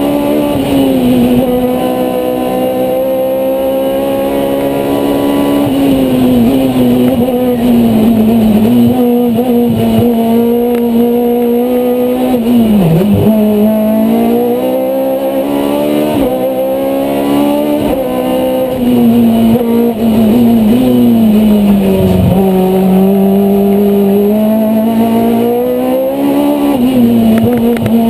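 Citroën Saxo 1.6 16-valve four-cylinder race engine running hard under load, heard from inside the cockpit. Its revs rise and fall continuously, with two sudden sharp drops in pitch, about halfway and about three quarters of the way through.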